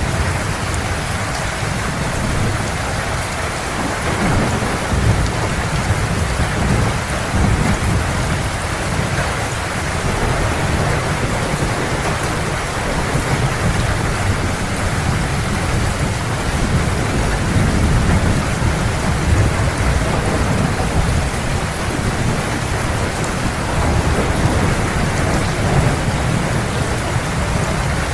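Heavy rain falling steadily, with low thunder rumbling continuously beneath it and swelling and easing every few seconds.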